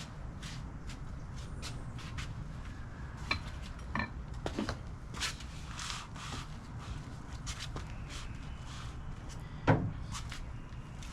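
Scattered clicks and knocks of tools and parts being handled, with one louder knock near the end, over a steady low rumble.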